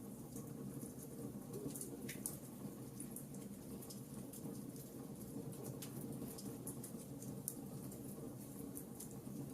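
Wood fire crackling in a fireplace: frequent small irregular pops and snaps over a low steady rumble.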